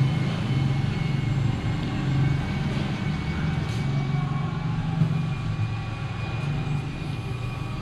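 Steady low rumble of a moving vehicle, with faint steady high whining tones over it.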